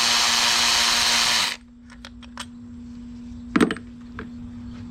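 Power drill/driver spinning for about a second and a half, backing out one of the bolts that hold the outboard motor's carburetor. A few light clicks follow, then a sharper metal knock, over a faint steady hum.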